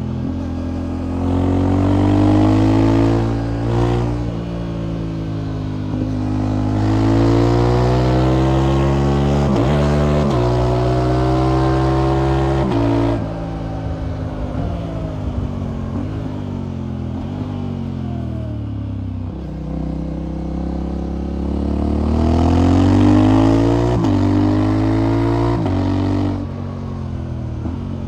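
Motorcycle engine pulling through the gears while riding. Its pitch climbs and drops sharply at each upshift, falls away as it slows in the middle, then climbs again.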